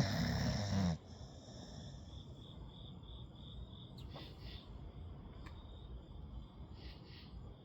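A sleeping Staffy-type puppy snoring: one loud snore in the first second, then softer breaths about four and seven seconds in.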